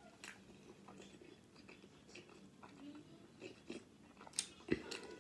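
A person chewing a mouthful of a burrito in a whole wheat wrap, soft and close, with a couple of sharper clicks near the end.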